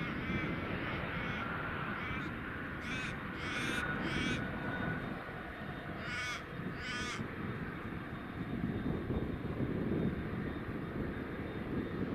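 A crow cawing, several harsh calls in short runs, over a steady low rumble.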